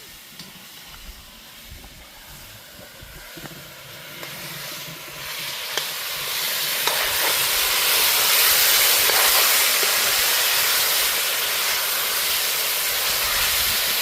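Hot cooking pot with browned sugar, sizzling quietly at first, then a loud steady hiss of steam that swells from about five seconds in as water goes into it.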